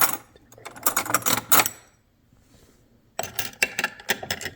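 Small hard objects clinking and rattling in two bursts, each a little over a second long, with a quiet gap between them.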